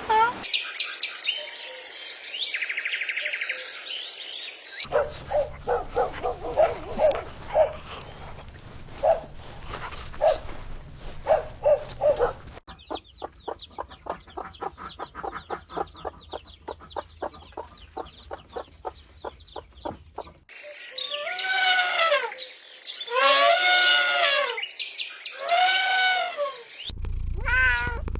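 A run of short animal-call recordings, one after another: bird chirps, then short repeated calls, then a fast even rattling trill, then long calls that rise and fall in pitch.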